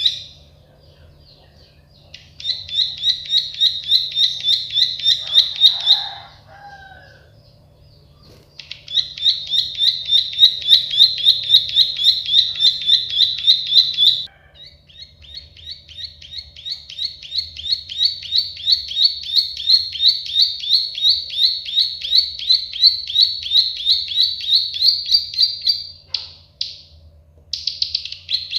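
Prenjak sawah (plain prinia) singing its 'klik-klik' song: long, rapid trills of sharp clicking notes, about five a second. There are three bouts of several seconds each, with short pauses between, then a few brief notes near the end.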